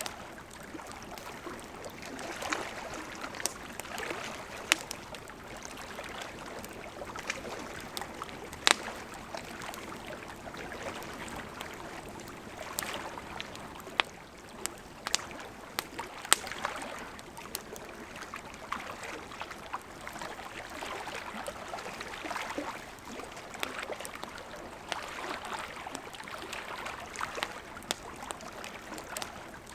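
Campfire crackling with frequent sharp pops over the steady rush of a gently flowing river; the loudest pop comes about nine seconds in.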